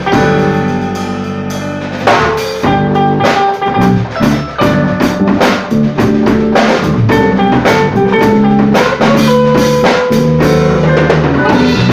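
A band playing with a drum kit keeping a steady beat under sustained chords and melody notes; a held chord rings for about the first two seconds before a sharp drum hit brings the beat back in.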